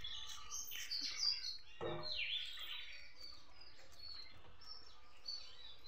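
Birds chirping: short high calls that sweep downward, repeated several times, most of them in the first two and a half seconds and fewer after.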